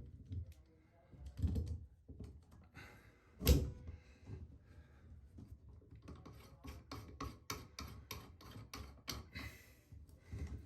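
Hand tools knocking and scraping on a shower floor drain as the old drain seal is worked out. A sharp knock comes about three and a half seconds in, then a run of quick clicks or scrapes, about three a second.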